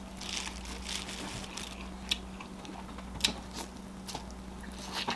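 Close-miked chewing and mouth sounds from someone eating a vegan seafood boil: irregular wet smacks, clicks and small crunches, over a faint steady electrical hum.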